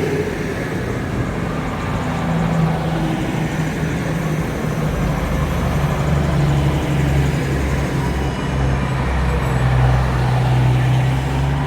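EMR Class 222 Meridian diesel-electric multiple unit pulling out of the platform, its underfloor Cummins diesel engines running under load in a steady low drone that rises and swells toward the end.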